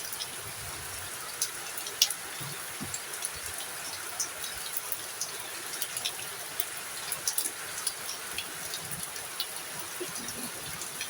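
Heavy rain falling: a steady hiss with many scattered sharp drop ticks, one louder tick about two seconds in.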